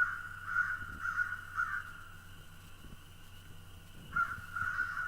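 Crows cawing: four harsh caws in quick succession, a short lull, then more cawing from about four seconds in.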